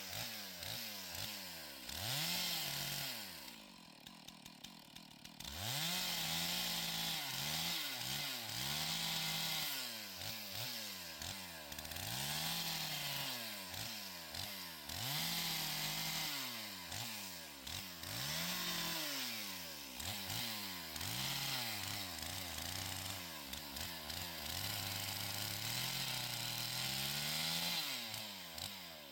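Stihl MS 461 two-stroke chainsaw cutting fallen trees into firewood, its engine revving up and falling back again and again as it goes through the wood. It drops to a brief idle about four seconds in before revving up again.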